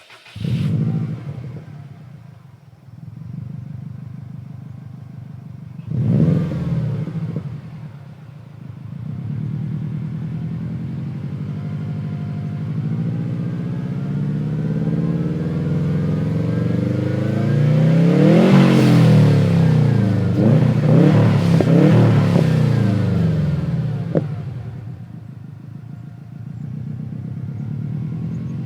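2004 Subaru WRX's turbocharged flat-four starting through an Apexi N1 cat-back exhaust, flaring and settling to idle. It then gives a short rev, followed by a long climb to high revs held with several blips, before dropping back to a steady idle near the end. The hiss as the throttle closes is the turbo's blow-off valve.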